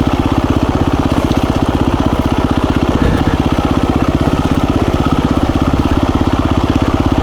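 KTM 350 EXC-F dirt bike's single-cylinder four-stroke engine running at low, steady revs, an even rapid putter with no revving.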